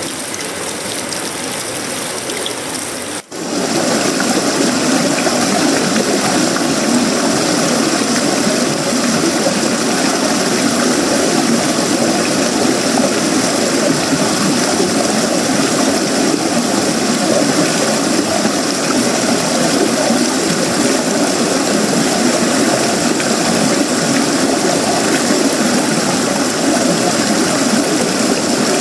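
Heavy tropical rain falling steadily on sheet-metal roofing, wood and leaves. About three seconds in it drops out for a moment, then comes back louder and fuller.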